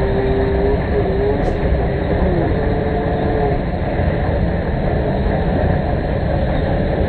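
Combine harvester running while harvesting rice paddy: a loud, continuous machinery rumble with a faint wavering whine that rises and falls.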